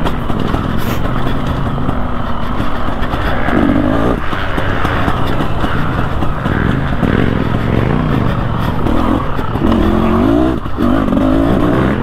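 A KTM Freeride 250R's two-stroke engine running under riding load, its pitch rising and falling over and over as the throttle is opened and closed.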